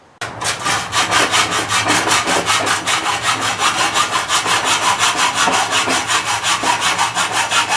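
Hand saw, most likely a hacksaw, cutting through an aluminium rail with quick, even back-and-forth strokes.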